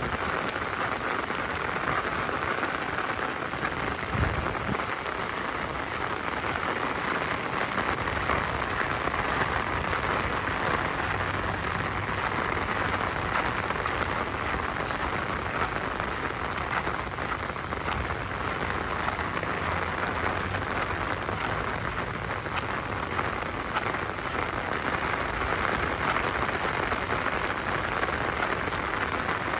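Steady rain falling and pattering on hard surfaces: an even hiss with scattered drop ticks. A single low thump about four seconds in.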